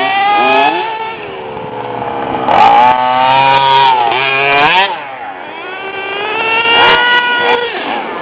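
Small nitro (glow-fuel) engine of a radio-controlled truck running and revving, its high buzzing note climbing and falling repeatedly as it is throttled up and eased off.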